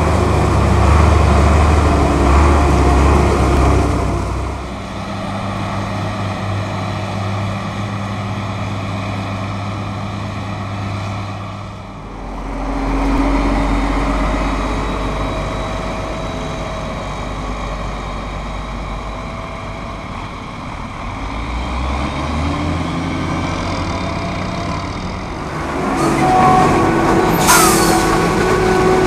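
Heavy diesel farm machinery running: a deep engine hum whose pitch and loudness shift several times as different machines come and go, with a short hiss near the end.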